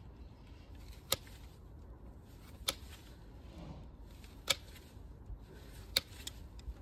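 Hoof trimming on a Shire horse's hoof: five sharp, short clicks spaced about a second and a half apart, the last two close together, over a faint steady hiss.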